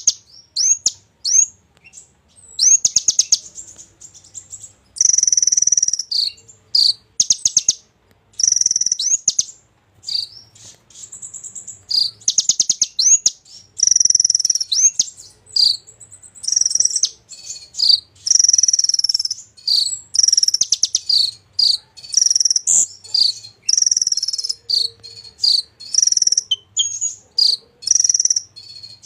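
A konin songbird singing in full voice: a busy string of high, rapid trills and sharp chirps, delivered in bursts of a second or so with short pauses between. The song carries the mixed, filled-in phrasing that keepers call 'isian'.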